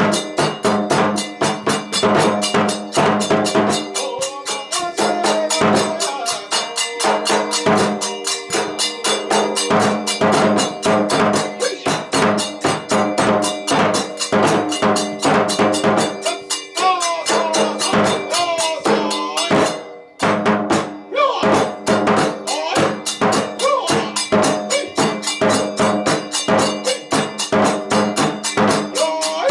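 Kagura festival music played fast: drums struck in a rapid, driving rhythm over ringing clashes of hand cymbals. There is a short break about two-thirds of the way through before the beat comes back in.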